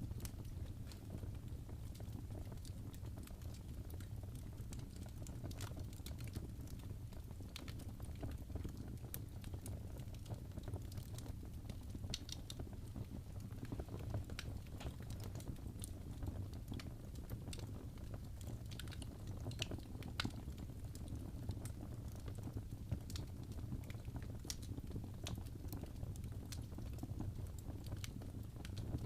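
Wood fire in a fireplace crackling: irregular sharp pops and snaps scattered over a steady low rumble.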